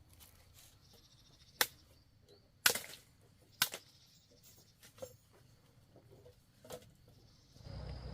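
A blade striking in sharp single chops, five of them spaced irregularly one to two seconds apart, the second the loudest. A faint steady insect chirr begins near the end.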